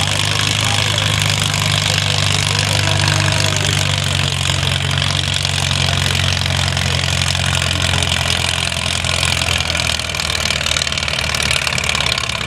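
Farmall tractor engine running steadily under load as it pulls the weighted sled down the track; the engine note changes about ten seconds in.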